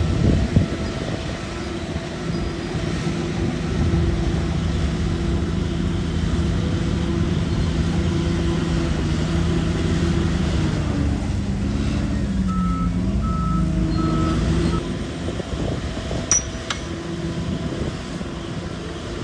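Shantui DH17 bulldozer's diesel engine running steadily, its pitch dipping and rising again about halfway through as it takes load, with three short reversing-alarm beeps. A sharp clank near the end.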